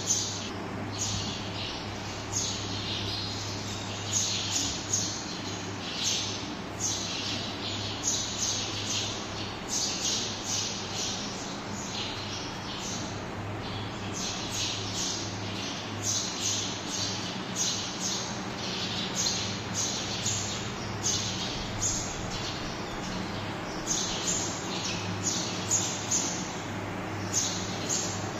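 A flock of small birds chirping continuously, many short high-pitched calls overlapping, over a steady low hum.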